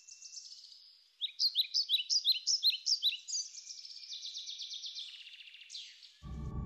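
Birds chirping and singing, with trills and a run of loud, sharp repeated notes. Near the end, low steady music begins.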